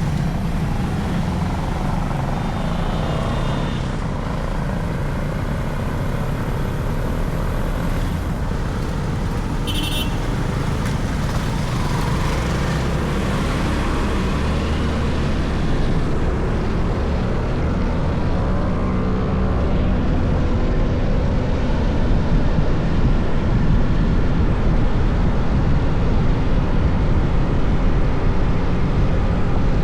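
Motorcycle engine running under way, with wind and road noise, getting a little louder in the second half. A short high-pitched chirp about ten seconds in.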